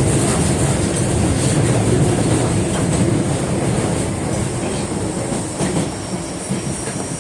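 Osaka Metro Tanimachi Line 22-series subway train (GTO-inverter set) heard from inside the car while running, with a steady low rumble, a thin high whine, and wheels clicking over rail joints now and then. The running noise gets a little quieter after about five seconds.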